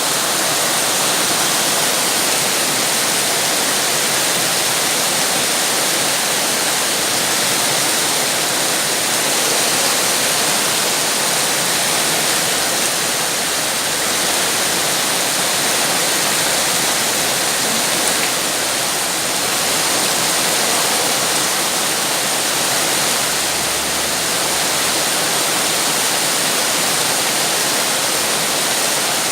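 Heavy rain falling steadily, a dense even hiss with no individual drops standing out.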